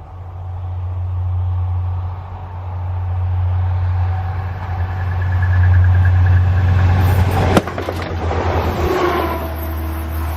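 A train approaching and running past close by, its rumble growing louder, with one sharp crack about three-quarters of the way through.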